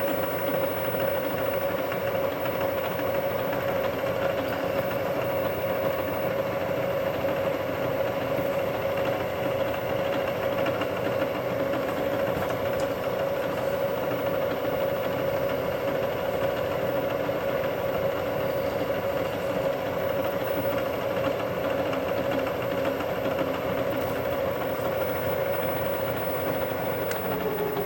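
Milling machine running steadily with a constant motor and spindle whine, then switched off near the end, its pitch falling as the spindle winds down.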